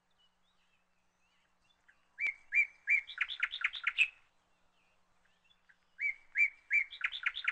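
A songbird singing two similar phrases about four seconds apart. Each begins with a few evenly spaced chirps and speeds up into a quick run of higher notes.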